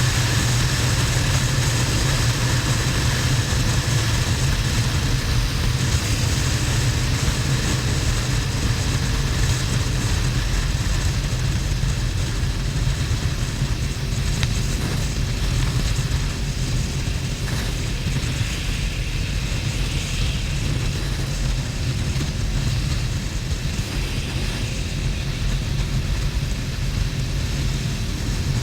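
Harley-Davidson XL1200N Sportster's air-cooled 1200 cc V-twin running steadily at cruising speed on the motorway. A low engine drone sits under a continuous rush of noise.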